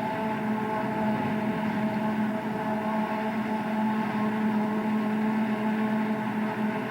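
John Deere self-propelled forage harvester running steadily while chopping maize, a constant engine hum with a steady whine from the machine above it.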